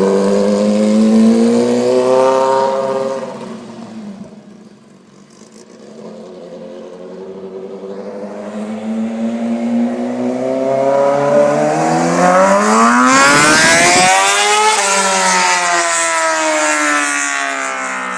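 2006 Kawasaki Ninja ZX-6R's inline-four engine revving as the bike pulls away and fades out. It then grows louder, climbing in pitch as it comes back, and passes by about 15 seconds in with the pitch dropping as it goes away.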